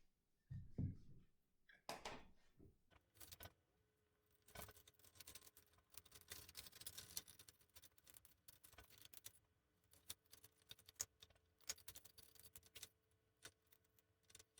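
Faint handling sounds of twine being threaded and knotted through the hanger holes of a plastic milk jug: soft rustling in the middle, with scattered light clicks and taps.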